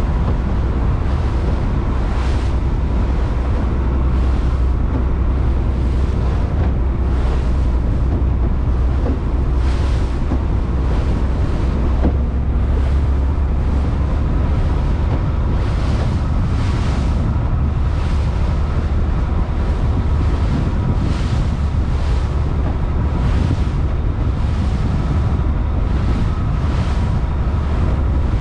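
Fishing boat under way: a steady low engine drone with wind on the microphone and water splashing and hissing along the hull in surges every second or two.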